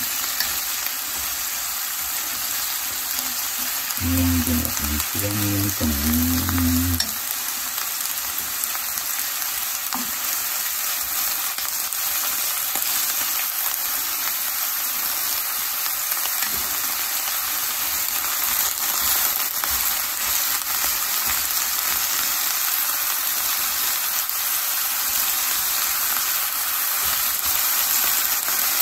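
Pork, cabbage and carrot frying in a hot pan: a steady sizzle, with chopsticks stirring and turning the food.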